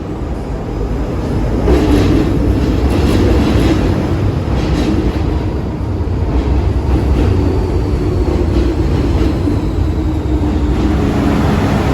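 MTR Kwun Tong Line M-train (metro electric multiple unit) running through a station without stopping. It gets louder about two seconds in, then holds a steady running rumble with a low hum. A run of wheel clicks over the rail joints comes in the first few seconds.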